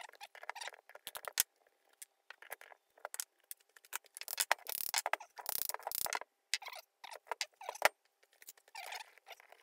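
Irregular metal clicks, scrapes and a couple of sharp knocks from a 1950s Burnerd three-jaw self-centring lathe chuck being worked by hand as its jaws are wound out and removed; the chuck's scroll jams, which the owner hopes is only swarf inside.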